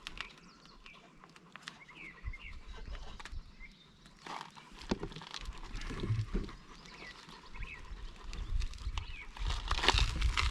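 Scraping, rustling and knocking as a duck call wrapped in a t-shirt is forced into a car's exhaust tip, a tight fit. Birds chirp briefly a few times.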